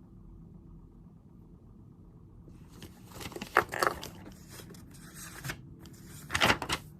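Crinkling, rustling handling noise at a study desk, starting about two and a half seconds in, with sharper crackles near the middle and again near the end over a low steady room hum.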